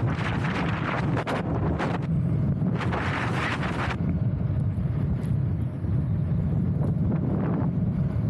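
Wind buffeting the microphone: a steady heavy rumble, with louder gusts of rushing noise in the first half that ease off about four seconds in.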